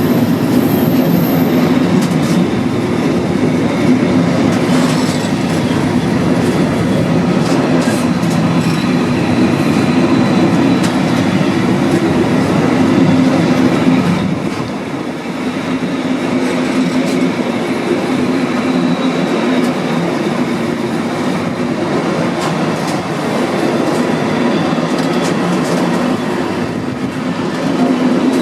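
A train running past, a loud steady rail noise that dips briefly about halfway through.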